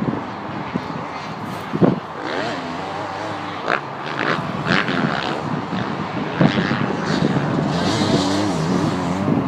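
Motocross bike engines revving up and down as the bikes ride the track, with a few sharp knocks along the way.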